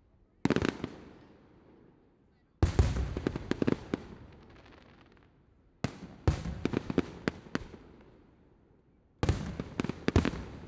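Aerial fireworks going off in four volleys, each a cluster of sharp bangs and cracks followed by a rumbling echo that dies away. The volleys come about half a second in, then near three, six and nine seconds.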